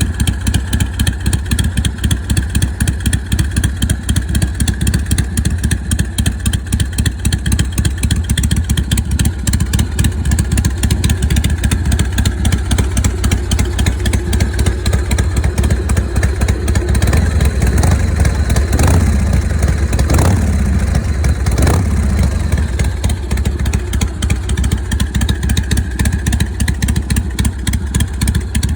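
Accurate Engineering 90-cubic-inch Panhead-style V-twin of a Panzer Digger motorcycle idling with a loping potato-potato beat. A little past the middle it is revved briefly a few times and falls back to idle.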